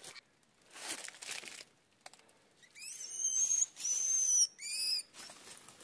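A bird giving three high, whistled calls over about two seconds; the first slides up into a held note, and the last is short. A soft rustle comes before them, about a second in.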